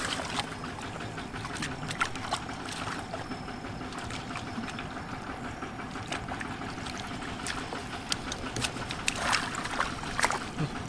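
Water trickling and sloshing, with scattered splashes and clicks that grow busier near the end, over a steady engine hum.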